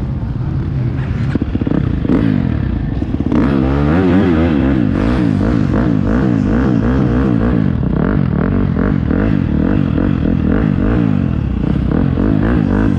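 Motocross bike engine heard close up from an onboard camera, revving hard with its pitch rising and falling rapidly and repeatedly as the throttle is worked around the track. The swings become quicker and stronger from about three seconds in.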